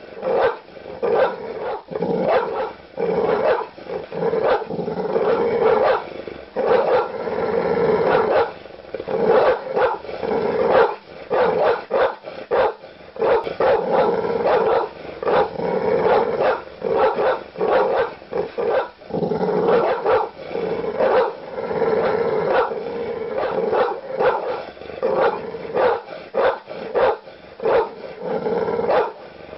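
Large dog barking aggressively, deep barks repeated in quick succession with short growls between them.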